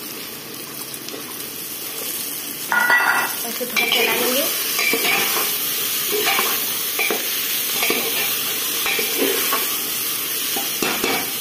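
Chopped mushrooms, onion and tomato sizzling in hot oil in a pressure cooker. A metal ladle stirs them with repeated short scraping strokes against the pot, starting about three seconds in.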